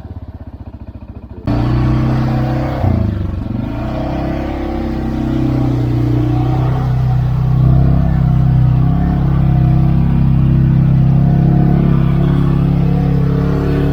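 CFMoto 520L's engine ticking over with a fast, even putter, then about a second and a half in the throttle opens and it runs loud and steady under load. Its pitch dips and climbs back around three seconds in.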